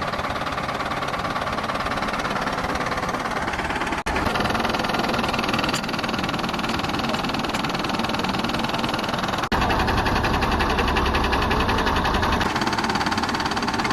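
A running engine with a steady mechanical clatter. The sound breaks off abruptly twice. After the second break, a heavier low rumble with an even rhythm runs for about three seconds.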